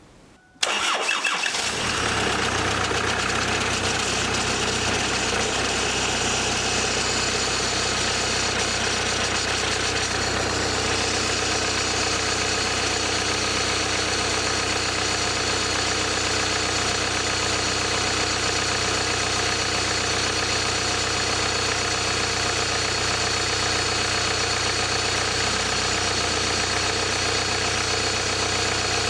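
Car engine starting about half a second in, then settling into a steady idle as it warms up.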